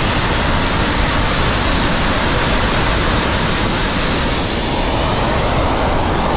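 Jet turbine engine fitted to a becak, running steadily: a loud, even rushing noise with a thin high whine above it that steps up slightly about two seconds in.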